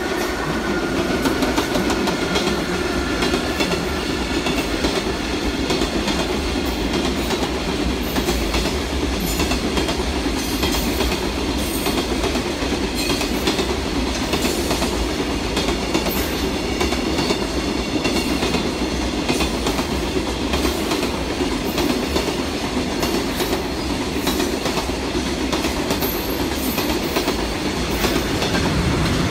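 A freight train rolling past, its wagon wheels clicking over the rail joints in a steady, continuous run.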